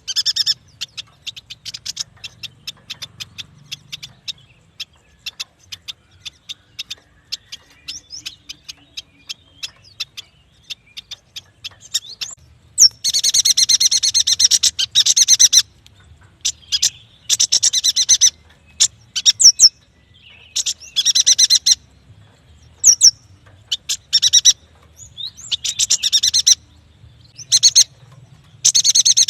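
Yuhina calling: a quick series of short chip notes, then from about halfway on loud, dense chattering bursts of a second or more each, separated by brief pauses, with a few sharp upward-gliding notes between them.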